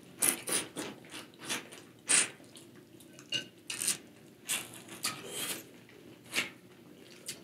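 Close-up mouth sounds of seafood-boil eating: wet chewing, sucking and lip-smacking on shrimp and corn on the cob in a buttery sauce. They come as a string of short, irregular clicks and smacks.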